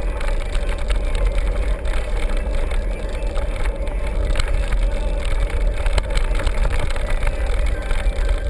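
Steady, heavy wind rumble on the microphone with scattered small clicks and rattles, like a camera riding on a moving bike or vehicle.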